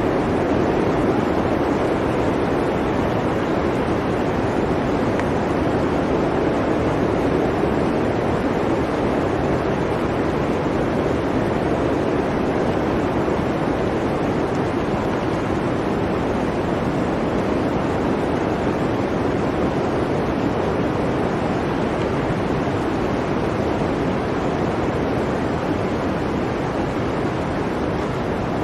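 Blizzard wind: a steady, dense rush of noise, heaviest low in pitch, swelling and easing only slightly.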